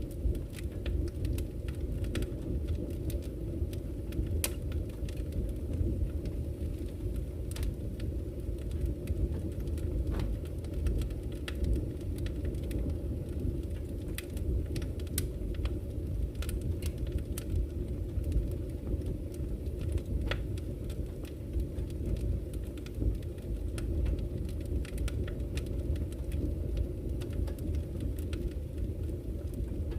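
Campfire crackling with scattered sharp pops, over the steady low rush of flowing river water.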